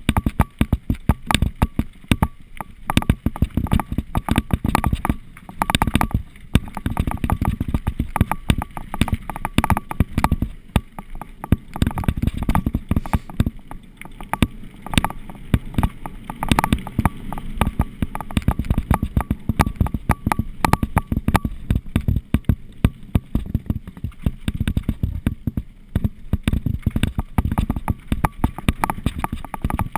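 Mountain bike clattering over a rough trail: a constant stream of irregular knocks and rattles from the bike over rumbling tyre noise.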